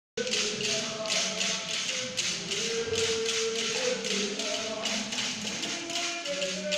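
A rhythmic beat, about four sharp strokes a second, with a group of voices singing or chanting along.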